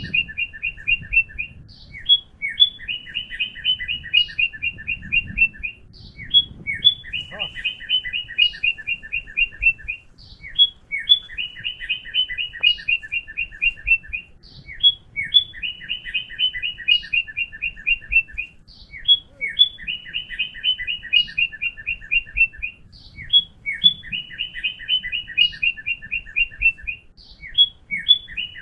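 A bird singing the same phrase over and over, about every four seconds. Each phrase is a rising note followed by a fast, even run of high chirps lasting about three seconds.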